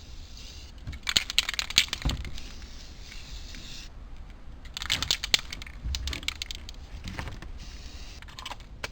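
Tape being pulled off the roll in three crackly, ripping bursts, the first about a second in, another near the middle and a shorter one near the end, as the boat seats are wrapped.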